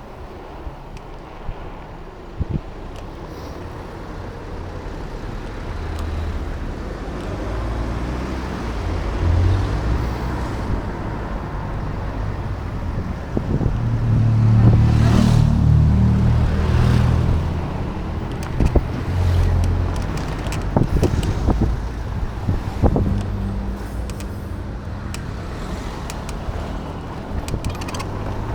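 Road and traffic noise heard from a moving e-bike, with wind on the action camera's microphone. A low rumble builds, peaks about halfway through, as of a vehicle passing, and eases off.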